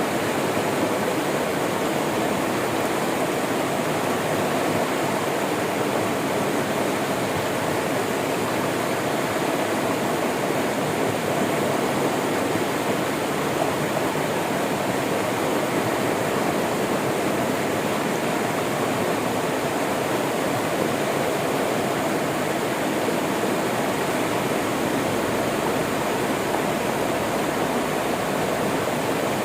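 River water flowing steadily, a dense, even rushing.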